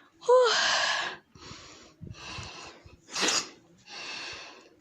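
A person breathing hard and audibly, a string of loud breathy exhales about once a second, the first opening with a short voiced sound, as from the exertion of a steep climb.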